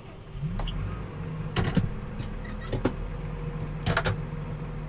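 An engine picks up speed about half a second in and settles into a steady run, with several sharp clunks and clicks over it.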